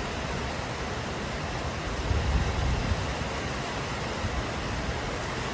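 Steady rain falling, an even hiss, with a low rumble swelling briefly about two seconds in.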